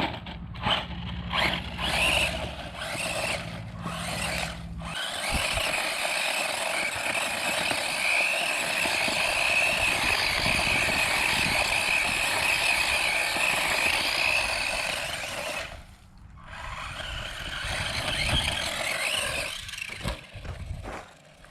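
A 1:12 scale MOPIDICK RC monster truck's electric motor whining under throttle as it drives through sand, with scraping from the tyres. It starts as short throttle bursts, then runs steadily for about ten seconds, drops out briefly about sixteen seconds in, and runs again with a few short bursts near the end.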